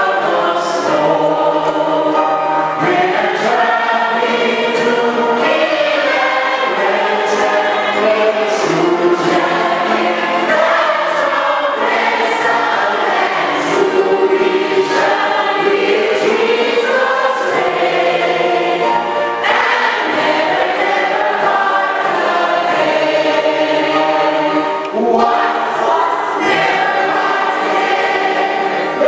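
A choir singing a hymn, many voices together without pause.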